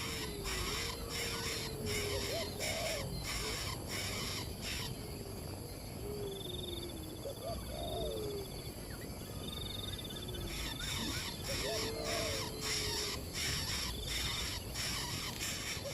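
Birds calling: short, low, curving calls repeated every second or two, with a high rippling trill for a few seconds in the middle, over a steady hiss.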